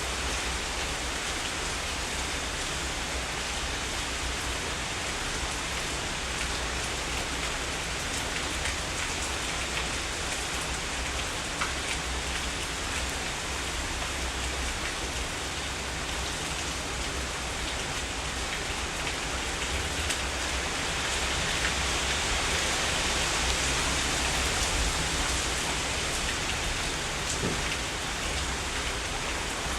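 Heavy rain falling steadily, an even hiss that grows a little louder about two-thirds of the way through.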